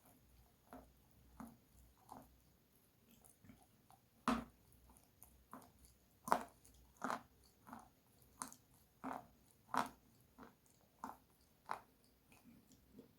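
Close-up crunchy bites and chewing of something dry and brittle: a string of sharp crunches about every half second to second, the loudest about four and six seconds in.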